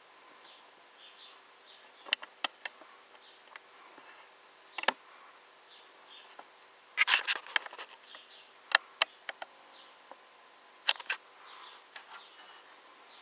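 Sharp clicks and taps of a 1:18 scale diecast model car being handled, with a quick rattling cluster about halfway through, over a faint steady hum.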